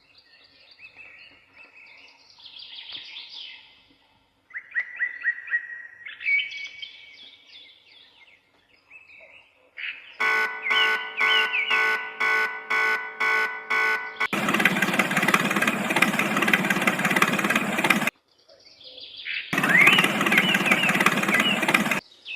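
Birds chirping and twittering for about ten seconds. Then comes a louder pulsing sound, about two pulses a second, followed by a steady loud din with chirps over it that cuts off abruptly twice.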